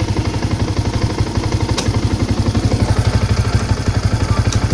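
Manual motorcycle engine idling on its center stand, a steady fast low pulsing. A single sharp click comes about two seconds in, while the clutch is pulled and the gear is shifted.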